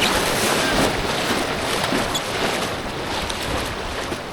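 Rushing whitewater of a mountain creek: a loud, steady rush of water around a two-person inflatable kayak running the rapids, easing slightly near the end.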